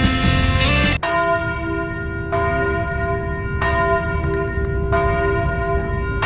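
Guitar music breaks off about a second in, then a large bell tolls in an even rhythm, five strikes about 1.3 seconds apart, each ringing on into the next with a long steady hum.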